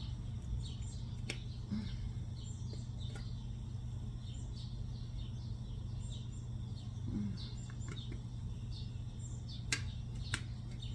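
Small birds chirping in short high notes over a steady low hum, with two sharp clicks near the end.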